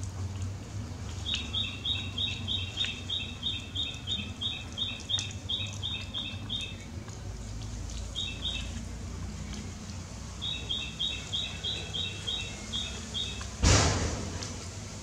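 A bird chirping in quick, even runs of short high two-note chirps, about three or four a second, that stop and start. A single loud thump comes near the end.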